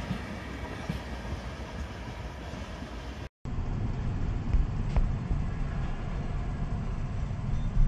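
Loaded freight train of tank wagons rolling past with a steady rumble. It cuts off abruptly about three seconds in, and an electric locomotive hauling flat wagons takes over, its wheels rumbling over the track with a few sharp knocks.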